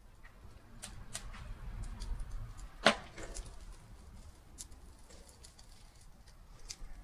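Wood fire crackling: a few sharp pops, the loudest about three seconds in, over a low steady rumble.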